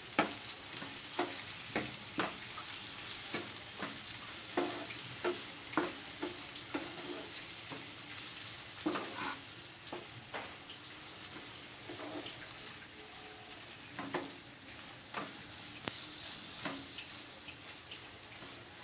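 Okra frying in oil and tomato masala in a nonstick pan, sizzling steadily, while a spatula stirs and scrapes against the pan in irregular strokes.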